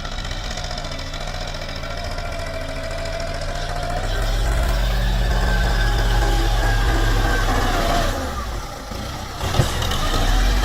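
Tractor diesel engine running steadily, working harder and louder about four seconds in and easing off briefly near the end, with a single sharp knock.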